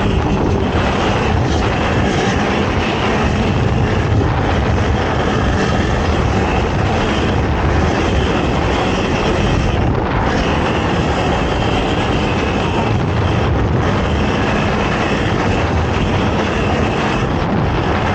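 ATV engine running continuously at racing speed, with a dense, steady rush of noise and no pauses.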